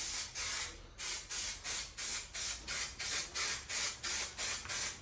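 Aerosol can of contact trim adhesive spraying in short, repeated hissing bursts, about three a second, as a coat of glue is laid on.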